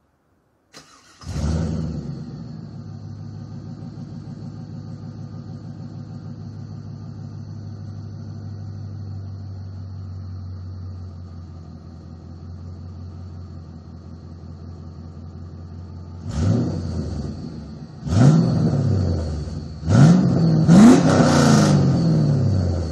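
2000 Chevrolet Camaro Z28's LS1 V8, running without catalytic converters through SLP Loudmouth II mufflers that dump before the tailpipes, starts with a flare of revs and settles into a steady idle. Near the end it is revved four times, the second and fourth revs held for a second or two before dropping back to idle.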